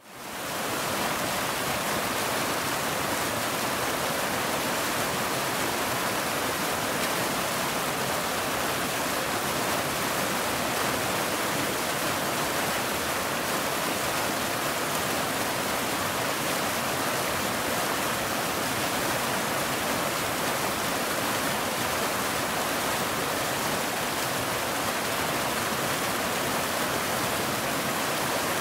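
Waterfall: a steady rush of falling water, fading in over the first second and then staying even.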